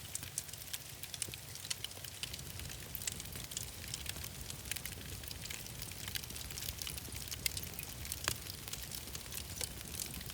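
Wood fire crackling, with many irregular sharp pops and snaps over a steady hiss and a low rumble.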